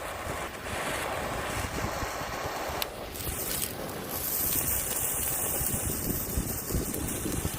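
Firework spraying sparks: a steady, high-pitched hiss that starts about four seconds in, over low wind rumble on the microphone.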